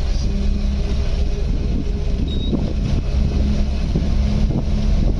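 Safari vehicle's engine running steadily, a continuous deep hum.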